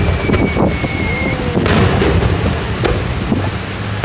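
Fireworks shells bursting overhead: deep rolling booms with sharp crackles scattered through. A thin, steady high whistle is heard for about the first second.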